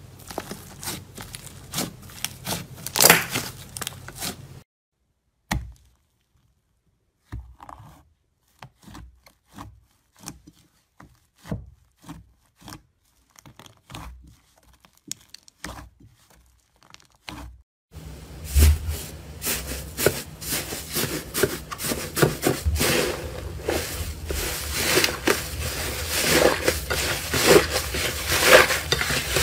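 Close-miked crackling and crinkling of slime being squeezed and pressed. There are dense crackles at first, then sparse single clicks with silent gaps, and from about 18 s in, a steady run of dense crackling.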